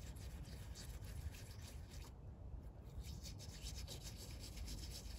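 A brush scrubbing rust converter gel into rusty, bubbled metal on a car's wheel well: faint, scratchy rubbing strokes with a short break about two seconds in.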